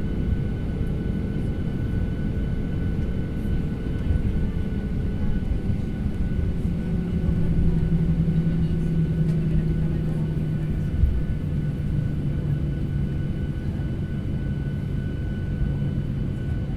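Passenger jet cabin noise: a steady engine and airflow rumble with a few held tones, the lower ones sliding down in pitch about five to eight seconds in.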